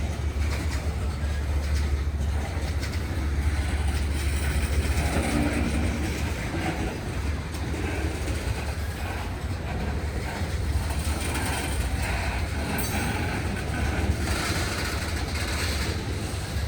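Norfolk Southern freight train's cars rolling slowly past at a crawl: a steady low rumble with scattered faint clicks from wheels and rails.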